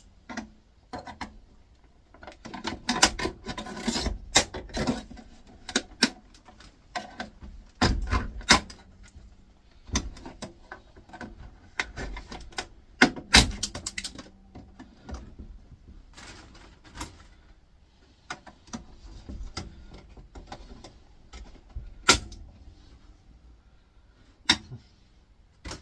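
Irregular clicks, knocks and rattles of the air fryer's plastic casing being worked and pried apart by hand, with a few sharp snaps as the plastic gives.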